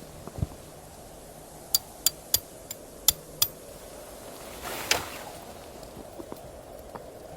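A dull thump, then a quick run of about six sharp clicks over two seconds, then a short brushing swish, over a steady background hiss.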